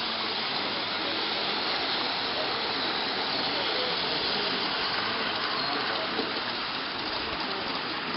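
Steady rushing of running water, with faint voices in the background.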